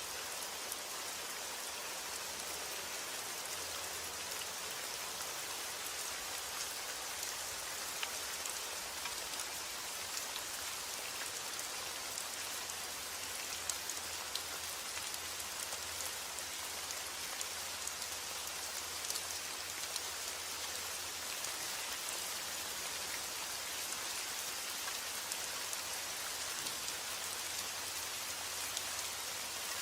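Steady rain, with many small drops pattering on a surface.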